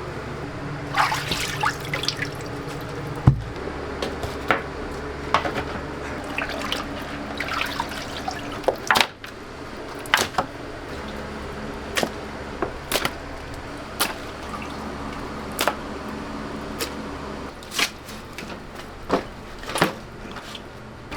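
Water dripping and splashing, likely from ducks being handled in brine, with sharp knocks roughly once a second over a steady low hum.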